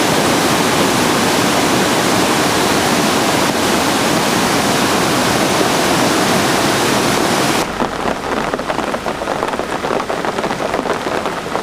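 Heavy rain in a windstorm, a dense steady rushing hiss. About seven and a half seconds in it changes abruptly to rain pattering on a surface close by, a thinner crackle of many small drops.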